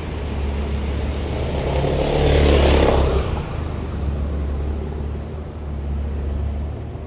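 A car passing close by on a street: its noise swells to a peak about two and a half seconds in and fades by the middle. A steady low rumble runs underneath.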